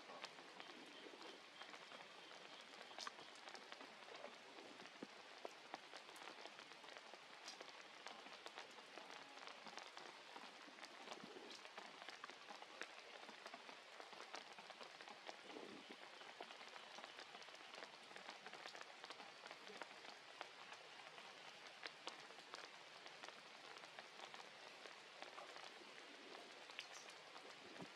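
Steady, faint rain falling: an even hiss with many scattered drop ticks.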